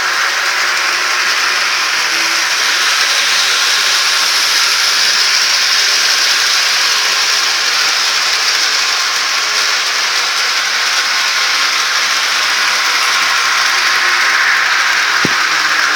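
HO scale model train running on the layout's track, a steady mechanical whirr of its motor and wheels.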